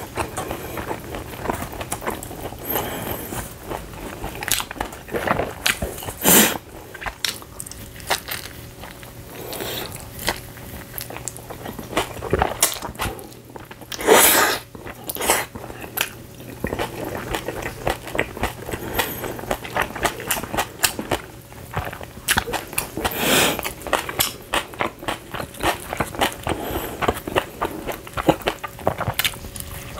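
Close-up chewing and biting of pizza, wet mouth clicks and smacking throughout, with louder bites about six seconds in and again about fourteen seconds in.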